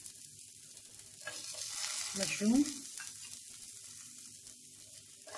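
Chopped vegetables frying in oil in a pan, a steady sizzle. It grows louder about a second in, when chopped mushrooms go into the hot oil.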